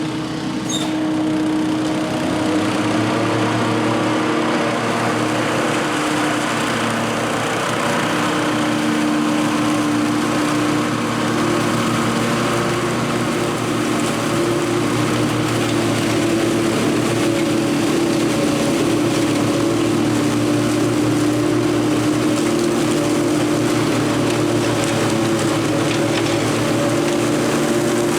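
Lawn mower engine running steadily at working speed, its pitch shifting slightly now and then.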